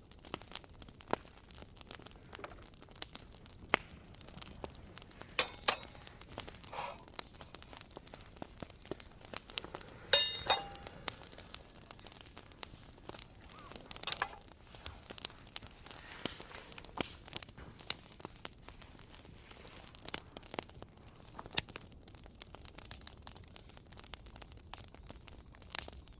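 Wood campfire crackling with scattered sharp pops and clicks, with a couple of ringing clinks of cookware or utensils about six and ten seconds in.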